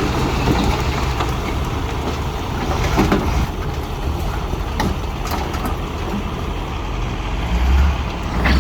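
Heavy diesel earthmoving machinery running steadily, with a few short knocks and clatters scattered through it and a swell of low engine rumble near the end.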